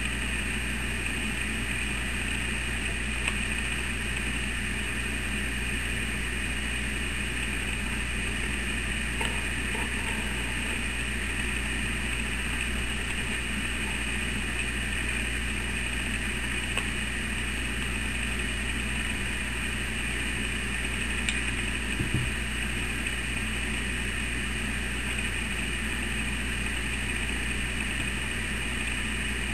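Electric sewing machine running steadily at an even speed through a long seam, with a few faint clicks along the way.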